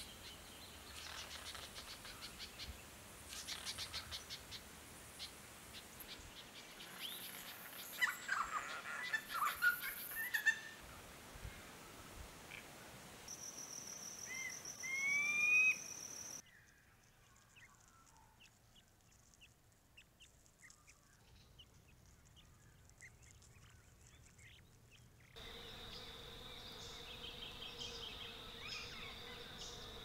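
Wild birds calling: rapid chattering rattles, then louder harsh calls about eight to ten seconds in and a rising call around the middle. A much quieter stretch with faint high chips follows. A steady insect buzz joins the bird calls in the last few seconds.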